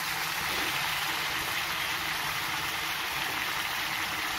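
Pork curry masala sizzling as it fries in a steel kadai: a steady, even hiss.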